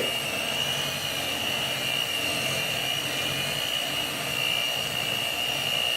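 Electric hand mixer running steadily at one speed, a constant high whine over a motor hum, as its beaters work the thick fudge mixture.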